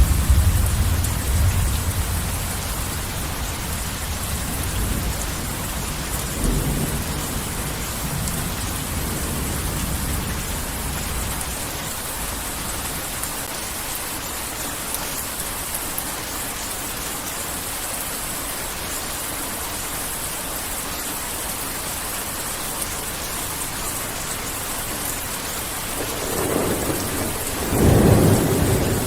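Heavy rain falling steadily, with rolling thunder: a low rumble dying away over the first few seconds, and another peal building about 26 seconds in and cracking loudest near the end.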